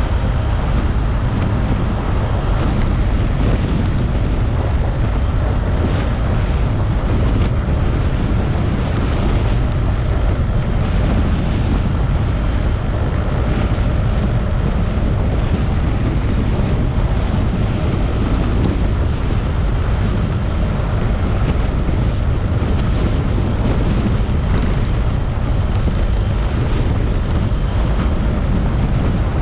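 Steady wind rush and road noise from a moving motorcycle, heaviest at the low end and unchanging throughout.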